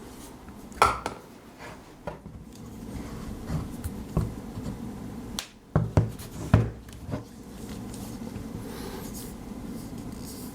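Hard drives being handled on a desk: a few knocks and taps, the loudest about a second in and a cluster of them around six to seven seconds, over a steady low hum.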